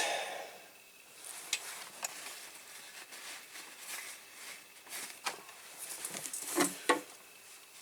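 Quiet rustling with a few scattered soft ticks and scrapes as glue is wiped off a hand.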